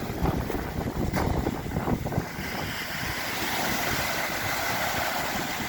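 Wind gusting against the microphone, then from about two seconds in a steady hiss of sea waves washing onto the shore.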